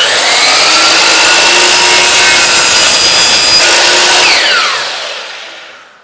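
Electric power saw starting up, running through a cut in wood for about four seconds, then winding down with a falling whine after the trigger is released.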